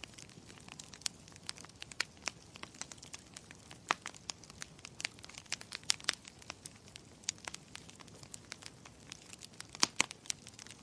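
Wood fire crackling in a fireplace: irregular sharp pops and snaps over a low hiss, with louder pops about four seconds in and near the end.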